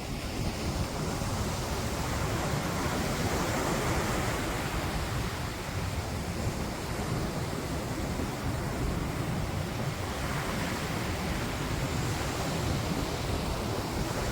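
Wind buffeting the microphone outdoors, a steady rushing noise that swells louder about three seconds in and again about ten seconds in.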